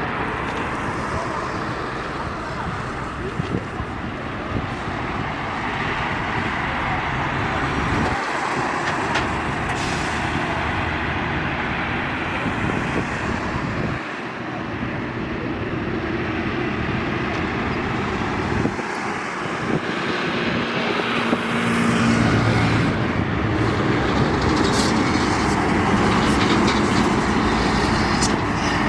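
Heavy trucks and other traffic passing on a busy highway, a steady mix of tyre and engine noise, with a truck's diesel engine growing louder about two-thirds of the way in.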